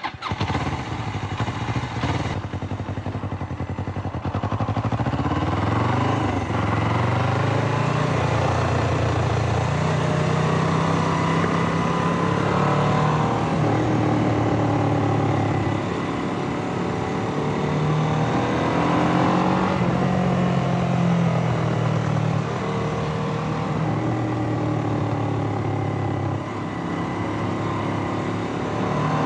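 Suzuki GS500E air-cooled parallel-twin engine starting up and running, then revved repeatedly: its pitch rises and falls several times before dropping back to idle.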